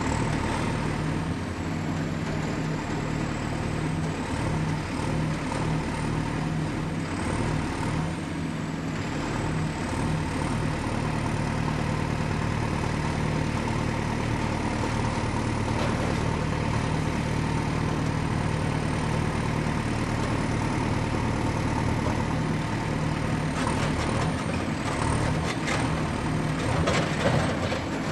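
Diesel excavator engine running steadily at a constant pitch, with a faint high whine above it. A few sharp knocks come near the end.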